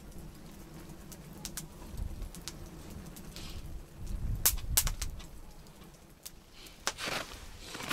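Wood campfire crackling, with sharp single pops scattered through and a short rushing noise near the end.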